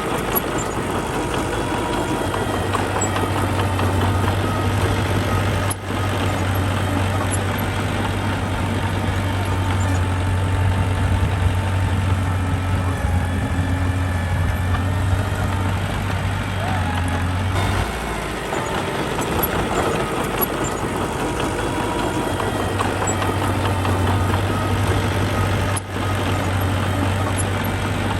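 Diesel engine of construction machinery running steadily, with a strong low drone. The drone fades for a second or so about two-thirds of the way through, then returns.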